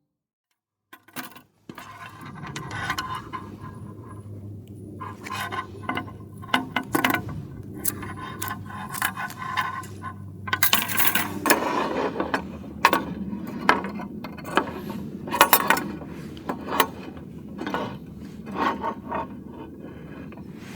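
Metal items clinking, knocking and scraping as they are handled, in a long run of irregular clicks. A low steady hum sits under the first half and stops about halfway through.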